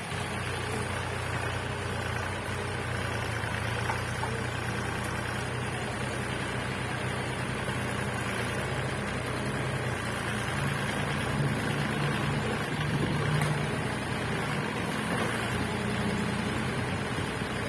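Backhoe's diesel engine running steadily, picking up briefly about two-thirds of the way through before settling back.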